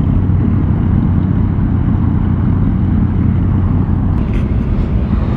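Motorcycle engine running at a steady cruise under heavy wind rush, heard from the rider's helmet microphone; the steady low engine drone eases slightly near the end.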